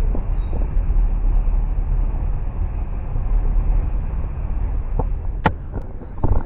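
Passenger train running: a steady low rumble with a few light clicks and one sharp knock about five and a half seconds in.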